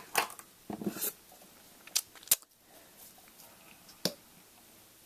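Makeup tools handled close to the microphone: soft handling noise at first, then a few small sharp clicks, two close together about two seconds in and one more about four seconds in.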